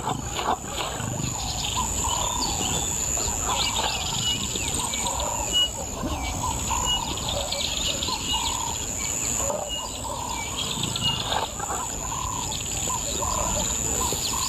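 Natural bush ambience: birds chirping and calling repeatedly in short notes, over a steady high-pitched insect drone.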